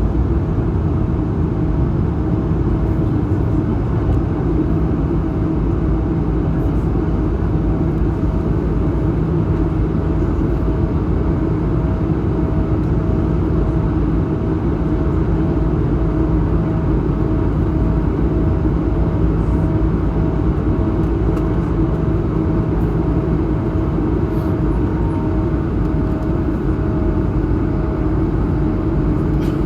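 Cabin noise of an Airbus A220-100 in its climb after takeoff: the steady rumble and rush of its Pratt & Whitney PW1500G geared turbofans and the airflow, with one steady mid-pitched hum that throbs slightly.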